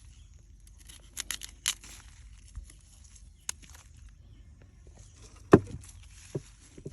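Sharp snaps and crackles of plant material being handled, in a quick cluster about a second in, then a single click and a heavier knock with a dull thud later on.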